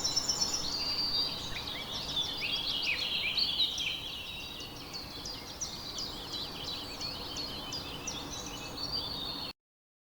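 A chorus of small birds chirping and singing, with many quick, overlapping high notes over a steady background hiss; it cuts off suddenly near the end.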